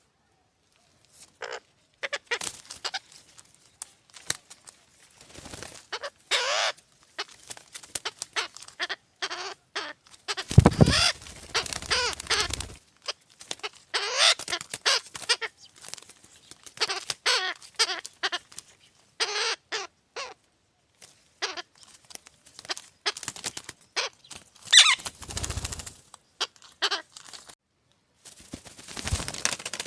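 Nestling birds giving repeated short, harsh begging squawks, one call after another, with a few low bumps in between.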